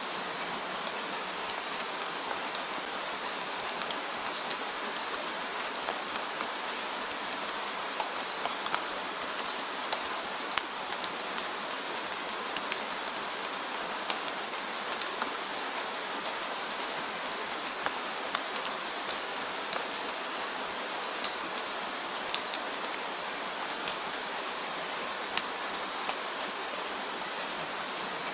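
Steady rain falling, a constant hiss dotted with many distinct drops striking a surface.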